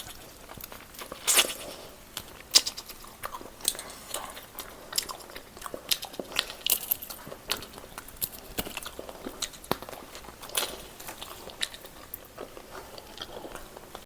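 Close-miked chewing and biting of roast chicken: wet mouth sounds with frequent, irregular sharp crunches and clicks, the loudest a little over a second in and again at about two and a half seconds.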